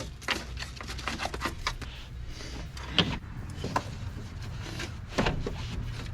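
Scattered light clicks, taps and rubbing as the parts inside a truck door are handled by hand, over a steady low hum.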